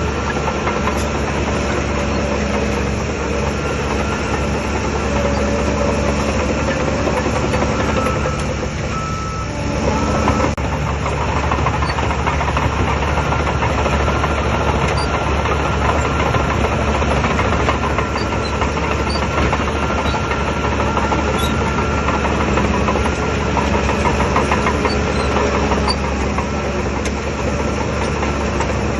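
Shantui DH17 bulldozer's diesel engine running steadily, easing off briefly about nine seconds in and then picking up sharply about ten seconds in.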